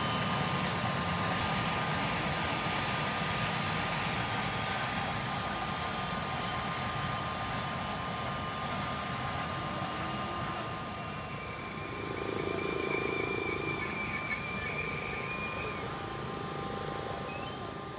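Mitsubishi SH-60K helicopter's twin turboshaft engines and rotor running, a steady rushing noise with a constant high whine, slowly getting quieter.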